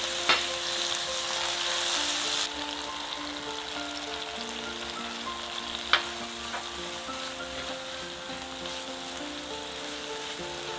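Tomato wedges sizzling in hot oil in a nonstick frying pan, louder for the first couple of seconds, while a spatula stirs them. Two sharp knocks come in, one just after the start and one about halfway through.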